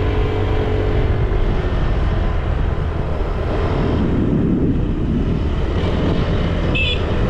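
Motor scooter engine running steadily while riding, with wind noise on the microphone. A brief high chirp sounds near the end.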